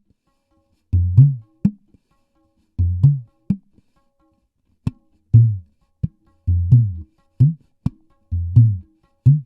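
Dangdut kendang drum played alone in short phrases, deep strokes that bend in pitch mixed with sharp slaps, with silent gaps between phrases. It is a loud sound-system check pattern.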